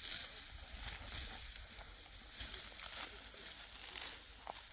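Dry, ripe wheat stalks rustling and crackling as they are harvested by hand, in a run of uneven crisp tearing strokes.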